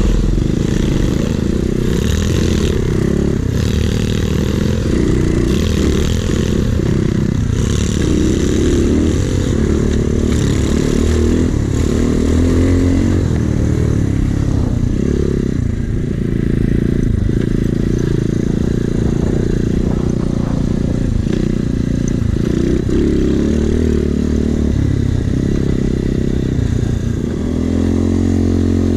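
Small Chinese pit bike's single-cylinder engine being ridden, its pitch repeatedly rising and falling as the throttle is worked. Near the end it settles to a steady note.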